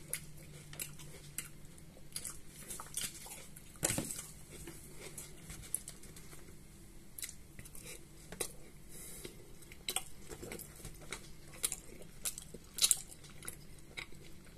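Close-up eating sounds: quiet chewing with wet mouth clicks, and a few sharper clicks, the loudest about four seconds in and another near thirteen seconds.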